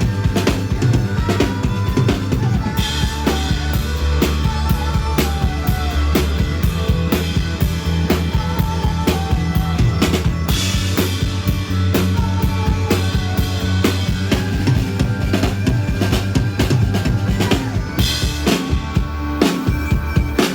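Live band music: a drum kit keeps a steady beat under sustained bass notes and a melody line, with no vocals.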